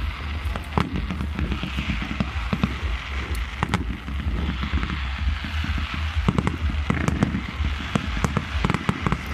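Aerial fireworks display going off: many sharp bangs and pops in quick, irregular succession over continuous crackling, with a steady low rumble underneath.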